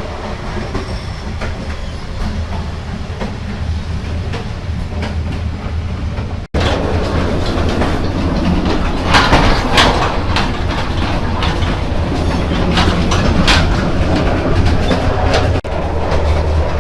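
Moving passenger train heard from inside the carriage: a steady low rumble of wheels on the rails with clacking and rattling. About six and a half seconds in the sound cuts abruptly to a louder stretch with more frequent knocks and clacks.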